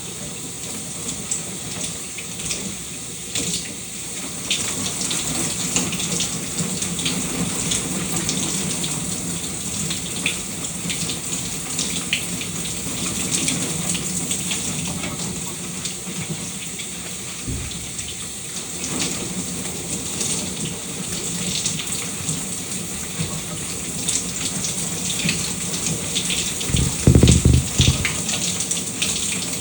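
Shower water running steadily, the spray spattering with many small splashes. Near the end comes a brief low rumble, the loudest moment.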